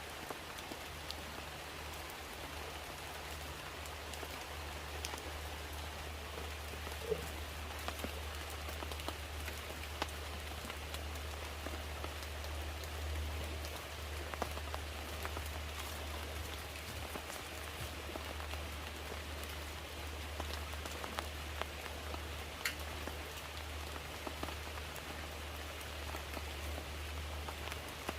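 Steady rain falling, with scattered individual drops ticking over an even hiss and a low, steady hum underneath.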